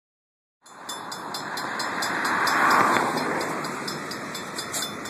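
Norfolk Southern GP38-3 diesel locomotive passing a grade crossing: a rushing rumble that swells to a peak about halfway through and then eases off. A fast, even ticking, about five a second, runs over it.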